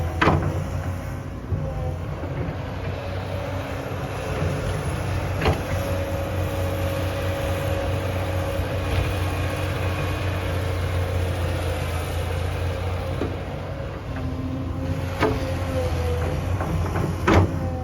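A large engine running steadily with a low hum, with a few sharp knocks: one at the start, one about five seconds in and one near the end.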